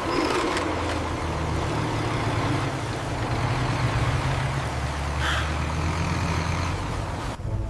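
Heavy vehicle engine running steadily with a low rumble over a constant hiss, dropping out briefly near the end.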